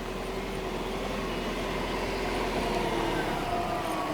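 A motor vehicle's engine running, gradually getting louder, with its pitch slowly drifting up and down.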